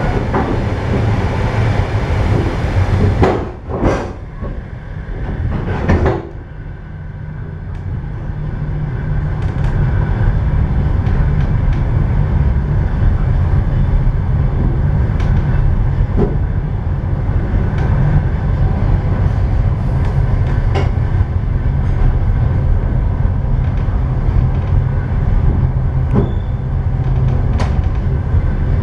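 Train running on rails: a steady low rumble with scattered clicks from the wheels, briefly dropping away twice about four and six seconds in, then running steadily on.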